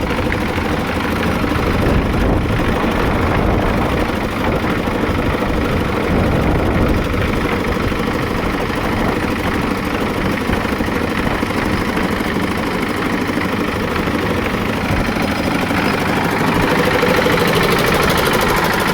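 Cement mixer's diesel engine running steadily, a little louder near the end.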